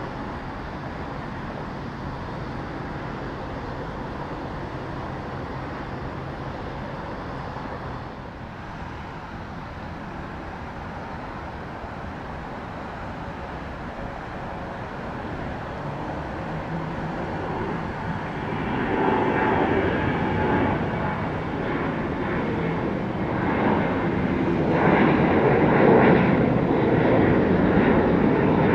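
Jet airliner engines at takeoff power as a departing plane passes. A steady rumble swells about two-thirds of the way through and stays loud to the end.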